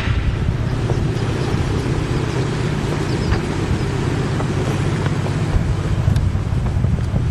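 Steady engine rumble, with wind buffeting the microphone. It is plausibly the piston engine of a 1975 Piper Arrow light aircraft, running.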